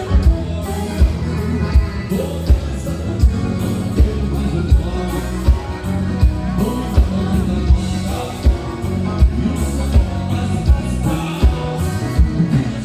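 Live band playing gaúcho dance music, with a steady bass drum beat about every three-quarters of a second under the bass and other instruments.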